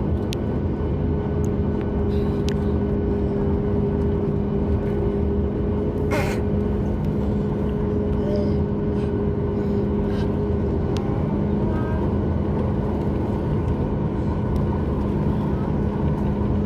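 Steady cabin noise inside a Boeing 737 MAX 8 with its engines running: an even rush with a low, steady two-note hum. A single sharp knock about six seconds in, plus a few faint ticks.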